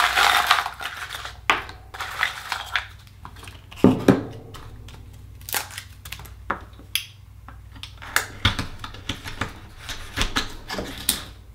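Akoya pearl oysters being handled and opened: a run of sharp clicks, cracks and scrapes of shell and tools. A rustling crunch comes at the start, and two louder knocks come about four seconds in.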